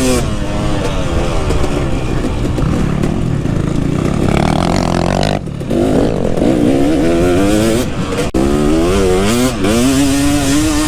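KTM 250 SX two-stroke motocross engine revving hard and easing off again and again as the bike is ridden around the track. The pitch swings up and down, dips briefly about five and a half seconds in, and near the end holds a steadier note.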